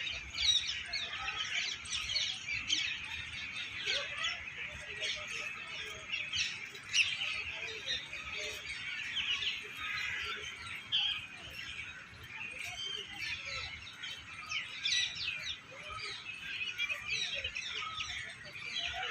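A dense chorus of many small birds chirping and twittering over one another without pause.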